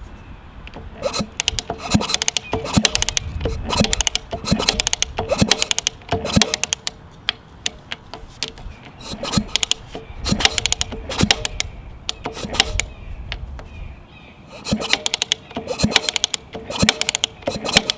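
1981 Suzuki RM125 two-stroke being kicked over repeatedly with its spark plug out, in four rounds of rapid mechanical clicking from the kickstarter and the freely spinning engine, during a check for ignition spark.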